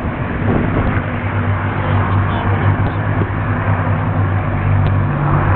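Rolls-Royce Merlin V12 piston engines of a Spitfire and a Hurricane in flight, giving a steady low drone.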